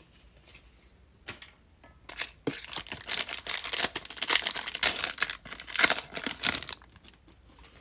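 A foil trading-card pack being torn open and its wrapper crinkled: a couple of small clicks, then a few seconds of dense crinkling and tearing that stops shortly before the end.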